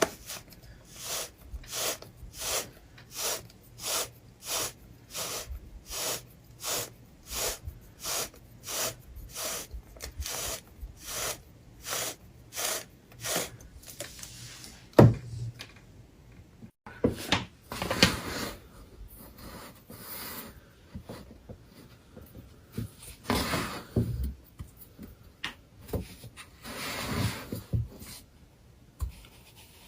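Regular scraping or rubbing strokes, about two a second, for roughly the first half, followed by irregular scrapes and taps with one sharper, louder stroke near the middle.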